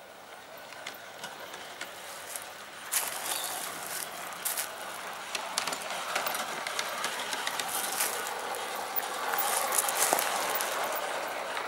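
Garden-scale model train rolling along the track, growing steadily louder, with many irregular sharp clicks over a steady rolling noise.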